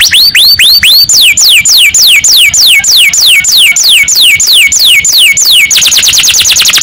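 Domestic canary singing in tours: a few rising notes, then a run of repeated downward-sweeping whistles about three a second, switching near the end to a fast trill.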